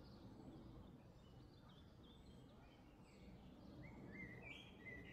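Very faint background noise with small birds chirping, the chirps coming in a short run near the end.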